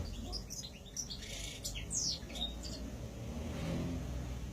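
Ornamental cage birds chirping: a quick run of short high chirps and a rising tweet in the first three seconds, fainter after that, over a low background rumble.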